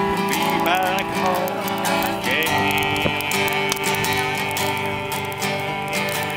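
Live acoustic country music: acoustic guitar strumming under a melody line that bends in pitch over the first couple of seconds, then settles into held notes.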